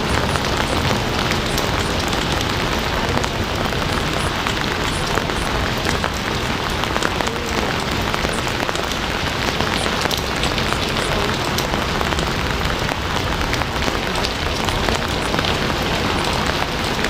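Steady heavy rain falling on a surface, a dense even hiss with individual drops ticking through it.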